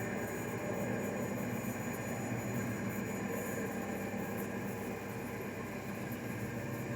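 CNC lathe running with a steady machine hum during a parting-off operation.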